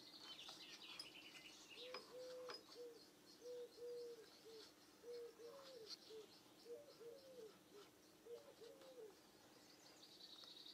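Near silence with faint bird calls: a string of short, low cooing notes, some dipping at the end, from about two seconds in to about nine, and a few high chirps at the start and near the end, over a low steady hum.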